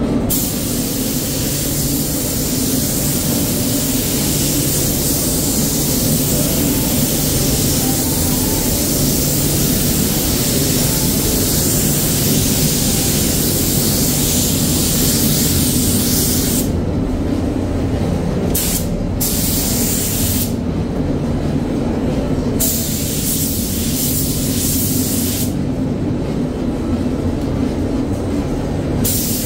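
Air-fed spray gun hissing in long passes, the trigger released several times in the second half for a few seconds at a time, over the steady hum of a spray booth's extraction fans.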